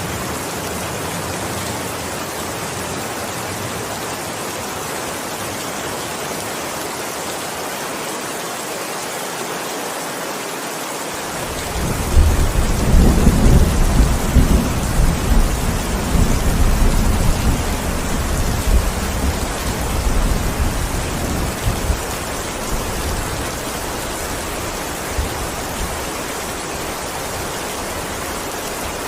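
Steady heavy rain with a long roll of thunder that starts about twelve seconds in, rumbles deep and loud for several seconds, then dies away while the rain goes on.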